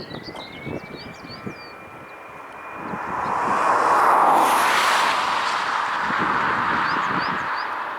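A jet airliner's engines passing close by: a whine rising in pitch at first, then a roar that swells to its loudest about four seconds in and slowly fades. Birds chirp briefly at the start and near the end.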